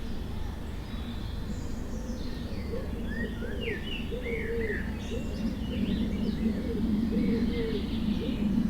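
Forest birds singing: quick curved chirps and whistled notes high up, over a run of low, evenly repeated notes that starts a couple of seconds in and grows louder toward the end.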